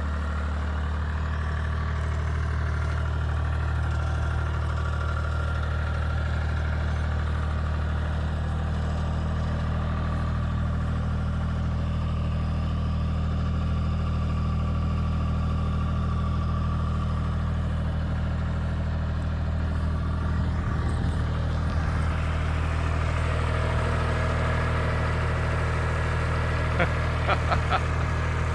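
Engine running steadily at idle, with a low even hum. Some loose clatter joins it about two-thirds of the way through, and a few sharp clicks come near the end.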